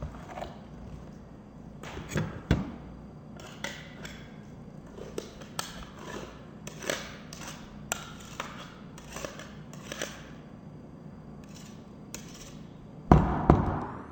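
Kitchen clatter from cooking: a string of light knocks and clinks of utensils and cookware, with one louder knock and rattle about a second before the end.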